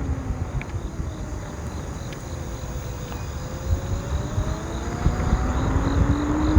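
Ninebot F2 electric scooter's hub motor whining as it slows, falling in pitch, then rising again as it picks up speed, over wind and road rumble that drop away while it is slow.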